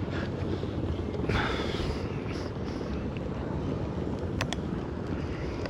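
Wind rumbling on the microphone, with a short hiss a little over a second in and two sharp clicks about four and a half seconds in.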